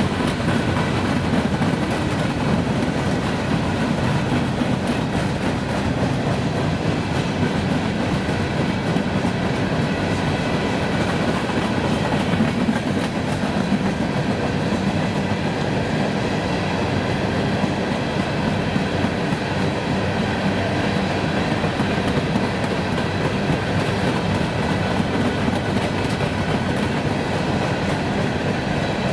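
A train's cars rolling past steadily, their wheels clattering on the rails.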